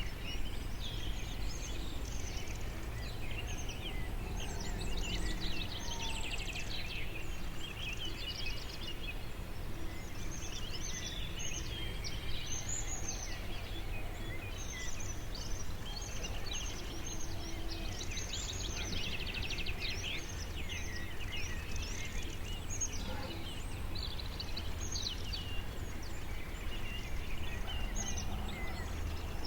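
Forest birdsong: several small birds chirping and trilling in quick, overlapping calls, over a steady low rumble.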